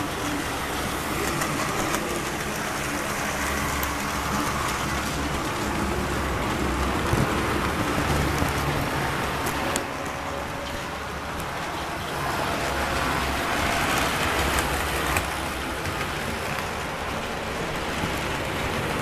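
Model train running along its layout track: a steady rumble of wheels and motor, with a few short clicks.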